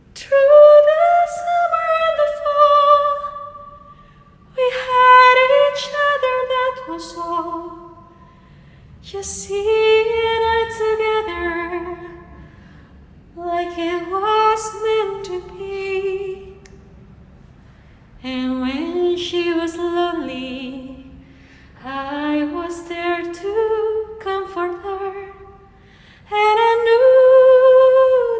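A woman singing unaccompanied: about seven long phrases with short breaths between them, the held notes sung with vibrato.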